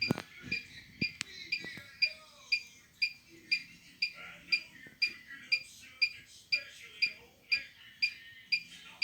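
Electronic beeper of a laundry appliance sounding short, high beeps at a steady rate of about two a second.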